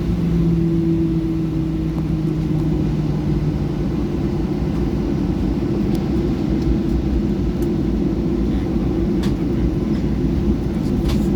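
Steady, loud rumble of a Boeing 737-800's CFM56-7B engines and rushing air, heard from inside the cabin. Two steady hum tones fade out within the first few seconds, and a few faint rattling ticks come near the end.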